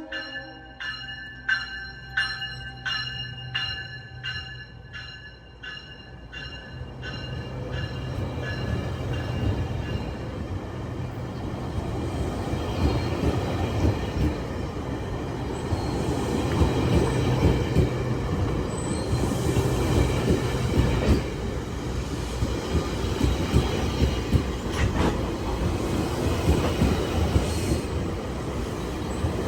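GO Transit commuter train approaching and passing: a bell rings steadily, about two strokes a second, for the first several seconds, then the rumble and wheel noise of the train builds about seven seconds in and stays loud.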